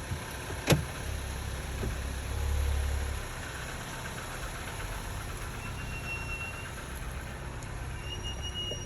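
2021 Cadillac XT4's brakes squealing: a thin, high, steady whine, brief at about six seconds in and back again from about eight seconds in, over the car's low rumble. A sharp click comes under a second in.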